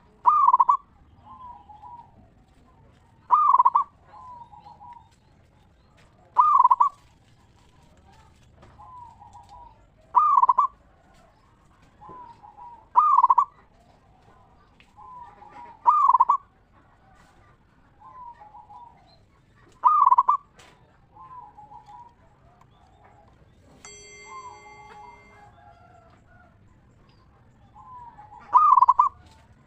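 Zebra dove (perkutut) cooing: a loud call repeated about every three to four seconds, each followed by a few softer notes, with a longer pause before one last call near the end.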